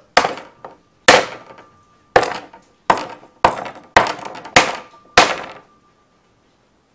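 Knife blade hacking down on a Favorite White Bird fishing rod, eight hard strikes over about five seconds with a faint metallic ring between them, as the rod blank holds and does not break.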